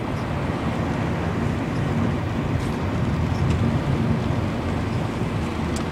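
Steady low rumble of a car's engine and tyres on a rain-soaked road, heard from inside the cabin, with a few faint ticks.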